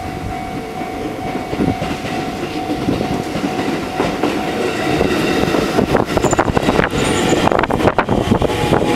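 A train passing over a Japanese railway level crossing, its wheels clacking over the rail joints, growing louder with a run of rapid clacks from about five seconds in. Under it the crossing's warning bell rings on one steady pitch.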